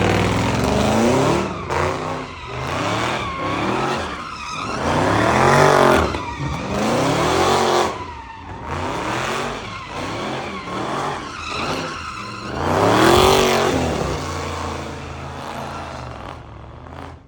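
Car engines revving up and down over and over with tyre squeal, as cars slide and drift.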